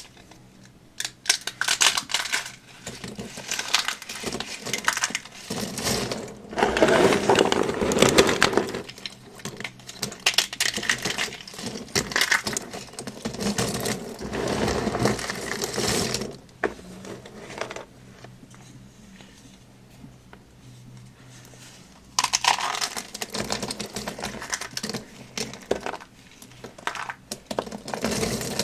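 Dry soap being crunched and crumbled, in repeated crackling bursts full of sharp little snaps. The loudest crunching comes about seven to eight seconds in, with a quieter spell of a few seconds past the middle before the crunching picks up again.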